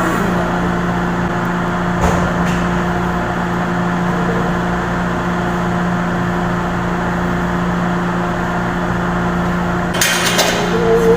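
Steady machine drone with an even, fixed-pitch electrical hum. There is a sharp click about two seconds in and a quick run of clicks and knocks near the end.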